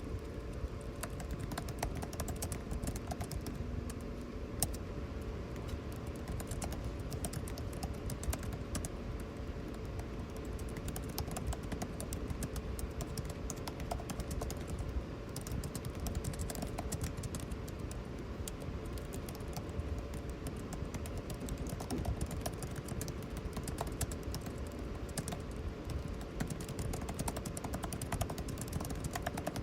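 Continuous typing on a computer keyboard, a dense run of key clicks, over the steady hum and hiss of air conditioning.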